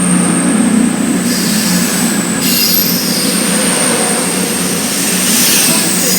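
Train moving through the station: a steady deep hum with a thin, steady high-pitched squeal above it, and short hissing rushes about a second in and again near the end.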